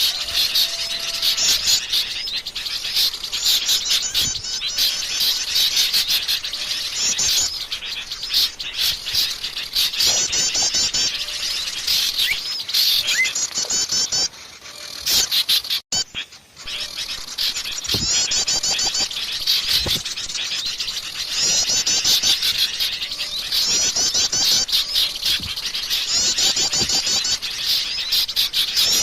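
Bird-lure recording of a dense chorus of small songbirds chirping and twittering, with short high trilled phrases repeating over and over. About halfway through it briefly drops away almost to silence, then resumes.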